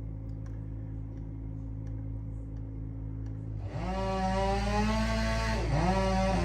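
A steady low engine drone, then about two-thirds of the way in a gas chainsaw revs up to full throttle, dips briefly, revs again and drops back off at the end.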